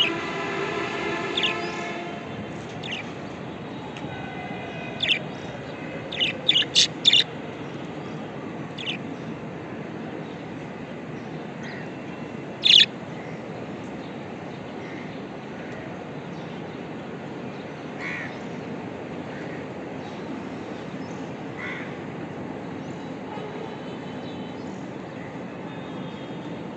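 Budgerigars giving short, scattered chirps and squawks: a quick run of calls about six to seven seconds in and a single loud squawk near thirteen seconds. The calls sit over a steady background hiss. A sustained pitched tone plays at the start and stops about two seconds in.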